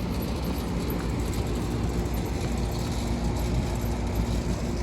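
Steady hum and fan noise of a running 5-ton Lennox central air conditioning condensing unit, a low rumble with a constant droning tone.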